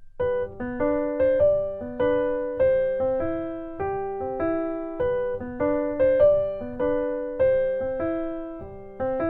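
Background music: a light piano tune played note by note at an even, unhurried pace, each note struck and left to fade.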